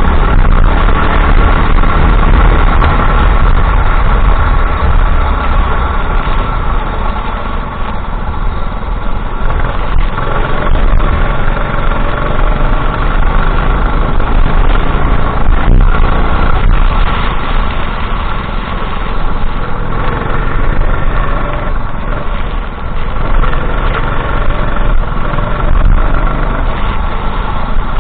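Kart engine running continuously, heard close up from onboard. Its pitch drifts up and down a little, and it dips briefly in loudness twice.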